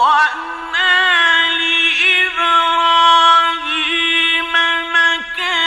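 A male Quran reciter's voice in melodic, drawn-out recitation, holding long ornamented notes with small wavering trills and only brief breaks for breath.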